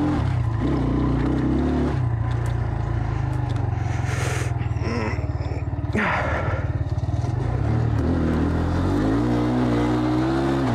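Enduro motorcycle engine running under load on a trail ride, its pitch rising and falling as the throttle is worked. A brief noisy rush comes about four seconds in and another about six seconds in.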